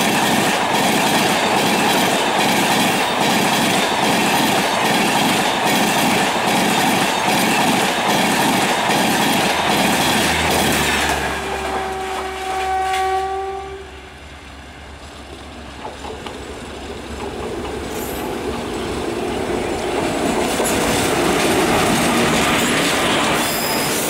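Humsafar Express coaches passing close by at speed: a loud steady rumble with a regular clickety-clack of wheels over rail joints. About eleven seconds in the last coach goes by, the rumble drops away and a train horn sounds one blast of about two seconds. A train rumble builds up again toward the end.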